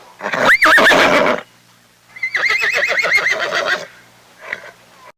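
Horse whinnying twice: a short call, then a longer quavering whinny.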